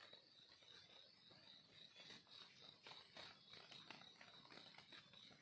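Near silence: a faint, steady high-pitched insect trill, with a few soft rustles of dry leaves.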